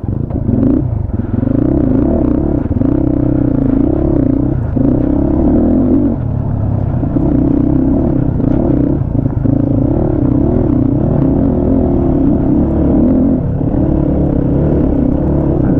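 250 cc motorcycle engine running under riding load, its pitch rising and falling as the throttle opens and closes, dipping briefly a few times.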